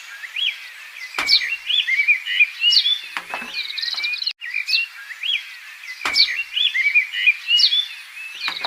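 Several birds chirping and twittering in quick, high notes, with a sharp downward-sweeping call about a second in and again after six seconds; the pattern repeats after about four seconds, like a looped birdsong ambience track.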